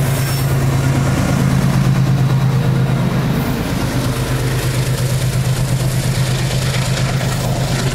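Two diesel-electric freight locomotives passing close by, their engines running with a steady low drone, followed by the freight wagons rolling past.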